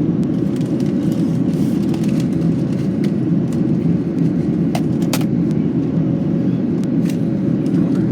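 Steady cabin roar of a Boeing 737-800 climbing after takeoff: its CFM56-7B turbofans and the airflow, heard from inside the passenger cabin. A few faint clicks come through around the middle.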